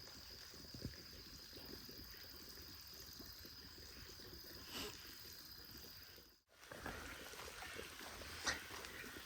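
Faint water trickling, with a steady high tone over it until a sudden break about six and a half seconds in.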